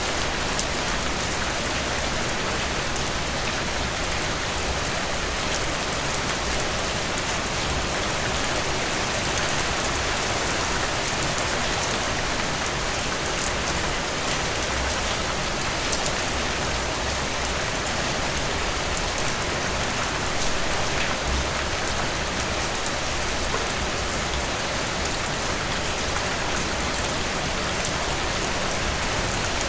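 Steady rainfall, an even hiss of rain with fine drop patter, unchanging throughout.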